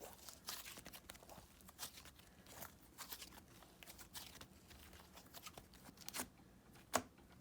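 Clay slime being squeezed and folded by hand, giving off faint, irregular clicks and crackles.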